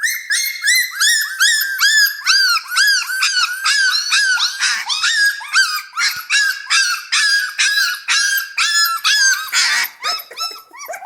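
Central Asian shepherd (Alabai) puppies barking in rapid, high-pitched yelps, several a second and overlapping at different pitches. There is a harsher, noisier burst about ten seconds in. The owner takes the barking to mean the puppies want to eat.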